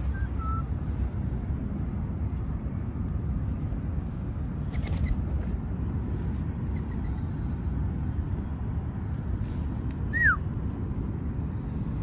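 Steady low outdoor rumble with a few short, faint bird chirps, and about ten seconds in one loud, clear bird whistle falling in pitch.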